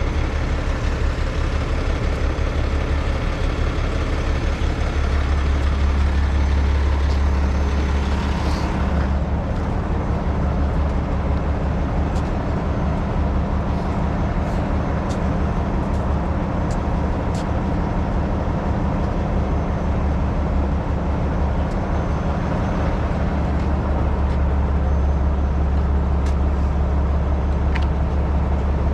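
Heavy rotator tow truck's diesel engine running steadily with a low drone that grows a little stronger about five seconds in, with a few faint clicks over it.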